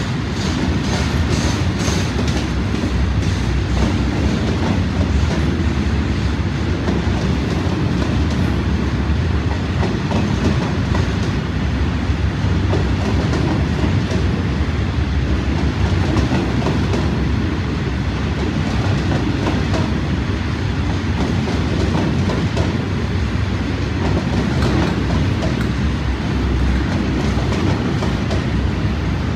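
Freight train of open box wagons rolling past at steady speed: a continuous low rumble with the wheels clicking over rail joints.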